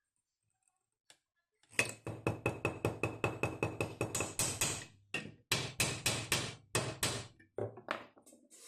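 A small hammer strikes in quick succession, about five blows a second, with a faint metallic ring. After a short pause a slower run of blows follows. This is typical of hand-peening rivet heads on a folding kayak's frame.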